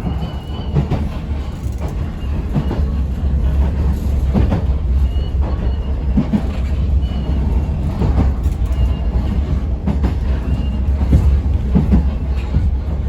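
Yoro Railway local electric train running along the line, heard from inside the car: a steady low rumble with the clack of wheels over rail joints about once a second.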